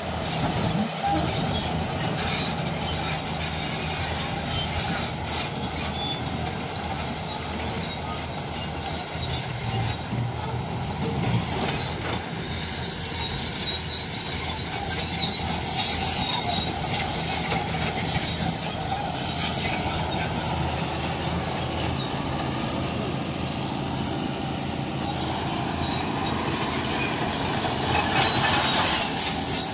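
Crawler bulldozer working: diesel engine running under a steady clatter of steel tracks, with many short, high squeals.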